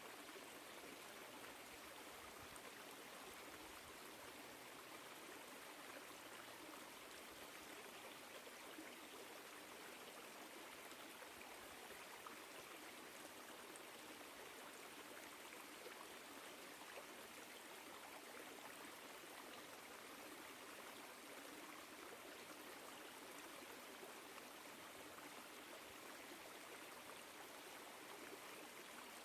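Woodland stream flowing: a steady, faint rush of running water.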